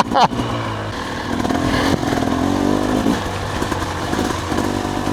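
Motorcycle engine running under way, its note rising and falling as the throttle changes.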